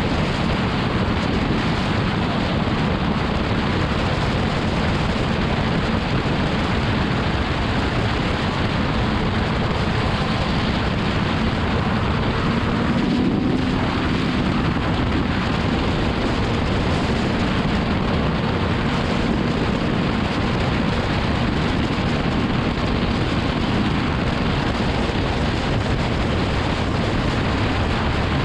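Motorcycle riding at highway speed: loud, steady wind rush over the microphone with the even note of a BMW S1000RR's inline-four engine cruising underneath. About halfway through, the engine note rises for a moment.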